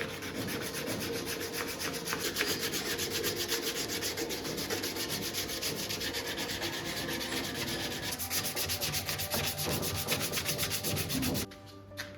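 Hand sanding of dense Indian mahogany hardwood: quick, even back-and-forth rubbing strokes, stopping abruptly near the end.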